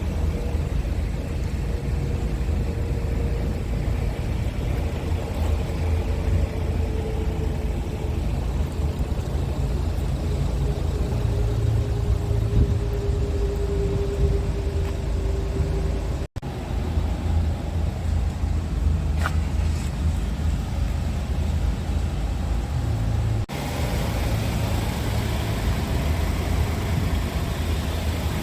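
Diesel engine of a Scania R truck running with a steady low rumble, a faint whine slowly falling in pitch during the first half. The sound breaks off abruptly twice, at about 16 and 23 seconds in, as clips change.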